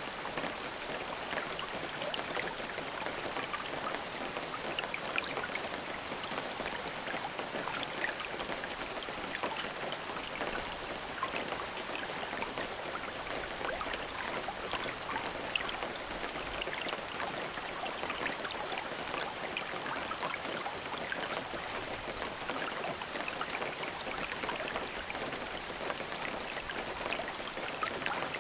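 Steady rain falling, an even hiss dotted with many individual drops ticking on a surface.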